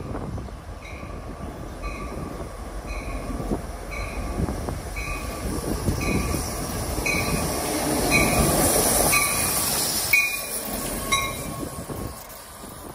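A passenger train moving past, its bell ringing in even strokes about every two-thirds of a second over the rumble of wheels on rail. The wheel and rail noise swells to its loudest, with a high hiss, about eight to ten seconds in, then fades.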